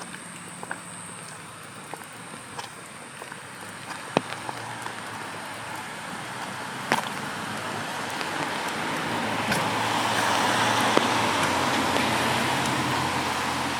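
A car passing slowly on a wet road: its tyre hiss and low engine hum build over several seconds, peak, and ease off near the end. Scattered sharp clicks sound throughout.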